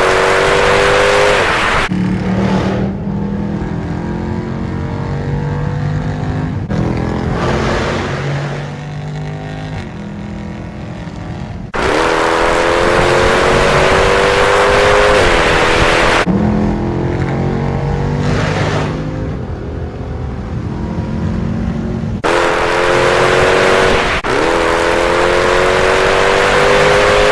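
SRT car's engine accelerating hard, its pitch climbing through the gears in several loud pulls. Quieter stretches of steadier engine and road noise come between the pulls, with sudden switches from one to the other.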